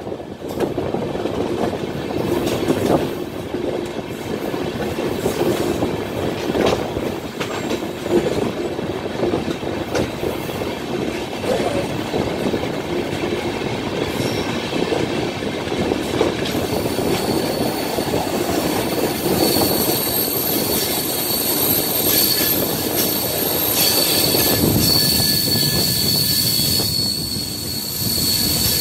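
Passenger train coaches running down a curving grade: a steady rumble and clatter of wheels on the rails, with a high-pitched wheel squeal that sets in a little past halfway.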